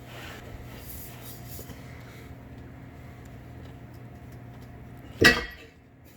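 A steady low hum with faint small ticks, then about five seconds in a single sharp metallic clank with a short ring: the stainless steel exhaust being knocked against something while it is fitted.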